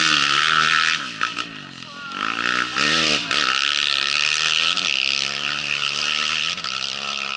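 Rally-raid motorcycle engine running hard; its pitch drops about a second in, climbs and falls sharply around two to three seconds in as it revs and changes gear, then holds steadier, over a loud rushing noise.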